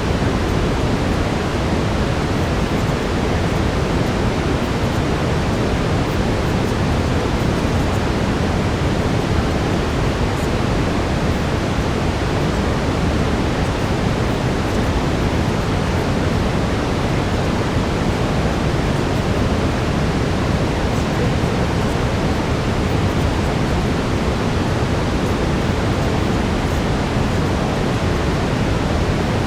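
Steady brown noise: an even, unchanging hiss weighted toward the low end.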